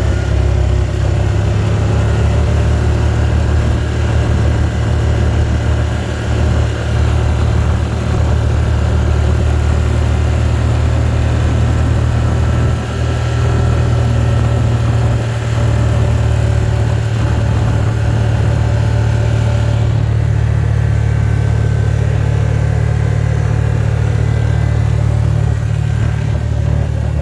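Steady low rumble of a vehicle being driven, engine and road noise heard from inside the cabin.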